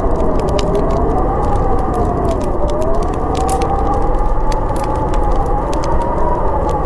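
Howling storm wind whose whistling pitch rises and falls slowly, over a steady low rush, with a wood fire crackling in quick irregular pops.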